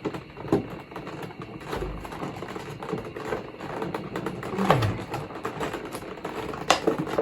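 Packaging being worked open by hand: an irregular run of small clicks, scrapes and rustles as fastenings holding the statue are pried loose, with one short falling creak about five seconds in.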